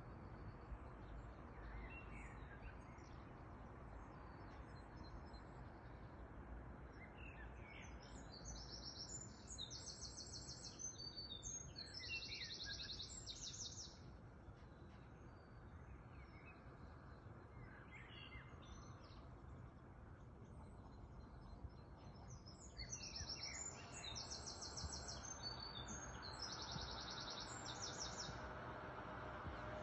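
A songbird singing two long phrases made of rapid high trills, the first about eight seconds in and the second about twenty-two seconds in, with short chirps in between, over faint steady low background noise.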